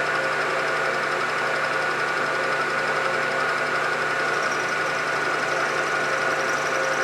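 Belt-driven milling machine running steadily, its motor and spindle giving a constant hum with a steady whine above it.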